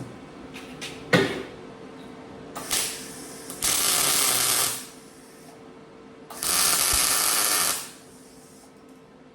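Welder tacking the sheet-metal seams of a homemade muffler: two loud bursts of arc noise, each about a second long, a few seconds apart. A sharp metal knock comes about a second in.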